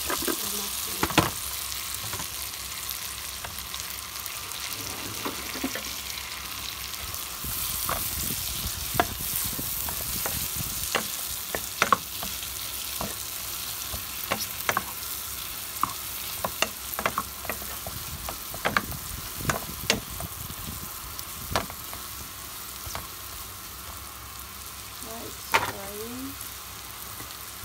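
Sliced mushrooms sizzling in butter and oil in a frying pan, with the steady hiss of frying broken by scattered sharp clicks and taps as a wooden spatula stirs them against the pan.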